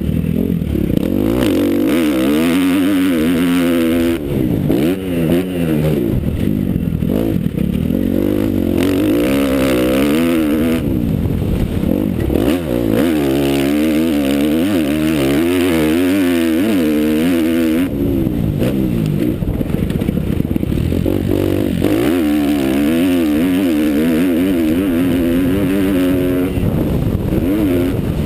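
Motocross motorcycle engine revving hard around a track, its pitch climbing and dropping again and again as the rider accelerates, shifts and backs off for corners and jumps.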